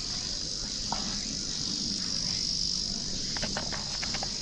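A steady, high-pitched chorus of summer insects droning without a break, with a few short clicks near the end.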